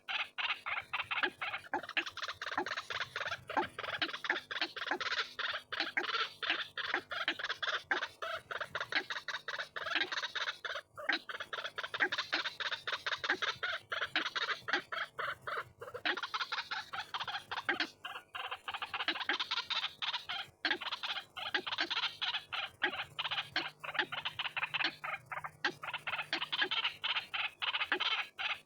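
White-breasted waterhen (ruak-ruak) calling: a rapid, unbroken series of harsh notes with no pauses, as played for a bird-trapping lure.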